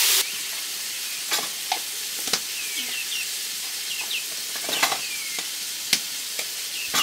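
Chicken curry sizzling in a wok over a wood fire: a steady hiss that drops to a quieter level just after the start, with scattered sharp clicks and a few short high peeps from a chick.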